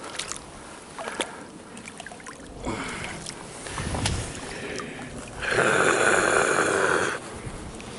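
Water splashing as a hooked bass is fought to the boat and landed, with scattered small knocks and clicks. The loudest stretch, a noisy splash and thrash lasting over a second, comes about two-thirds of the way in.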